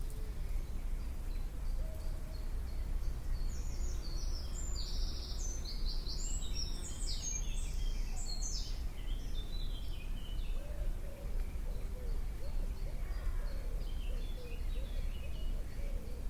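A songbird sings a quick run of high, jumbled notes from about four to nine seconds in, and again more faintly near the end, over a steady low rumble of outdoor background noise.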